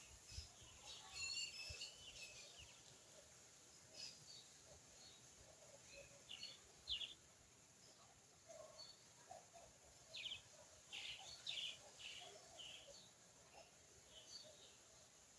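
Faint, scattered short bird chirps and twitters, in small clusters, over low background noise.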